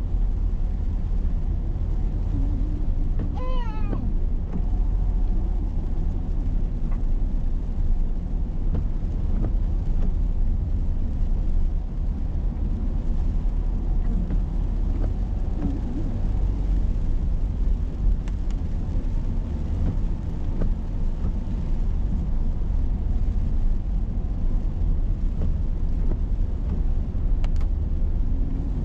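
Steady low rumble of a car driving, heard from inside the cabin. About three and a half seconds in, a short high wavering cry sounds briefly over it.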